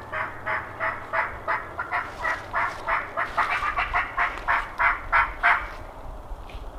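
A long, even run of turkey yelps, about three notes a second, growing louder and stopping about a second before the end.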